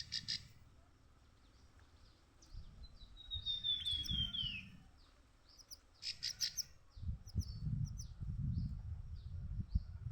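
Canary song: a quick descending trill, a burst of chirps, then a string of short down-slurred notes about twice a second, the kind of recording played to train young canaries (masteran). A low rumbling noise runs underneath and is loudest in the second half.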